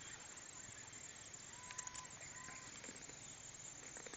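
Quiet outdoor background with a few faint, thin bird calls about two seconds in.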